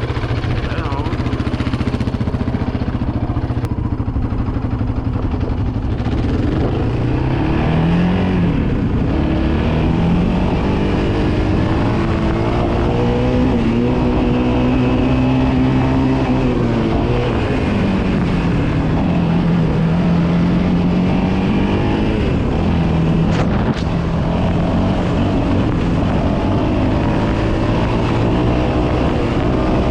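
Yamaha Raptor 700R quad bike's single-cylinder engine running under way, its pitch climbing about a quarter of the way in, holding high for a few seconds, then dropping and rising again as the throttle changes.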